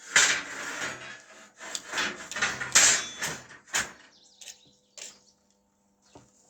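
A run of knocks, clatters and scrapes, loud through the first four seconds, then a few fainter knocks over a faint steady hum.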